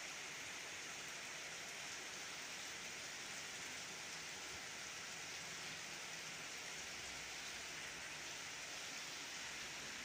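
Very heavy rain pouring down steadily onto a wet street: an even, unbroken hiss.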